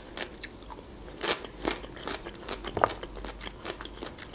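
Close-up crunchy chewing of fresh cucumber: an irregular run of crisp crunches, a few louder ones in the middle.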